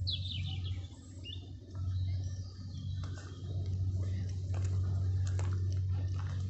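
Outdoor ambience with a steady low hum, a short run of quick falling bird chirps right at the start, and scattered faint clicks and taps after.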